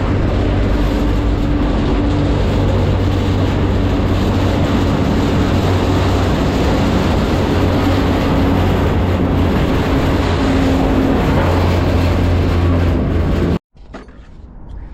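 Freight train rolling, heard from aboard a car: a loud, steady rumbling noise with a low hum under it. It cuts off abruptly near the end to a much quieter background.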